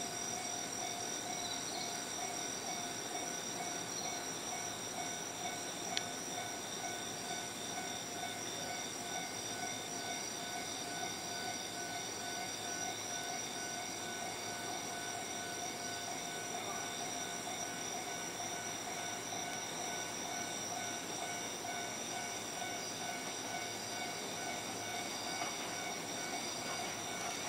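JR Kyushu 783 series electric train approaching from a distance: a steady hum and hiss with several steady tones that hold unchanged throughout, with no horn and no distinct wheel beats. A single click about six seconds in.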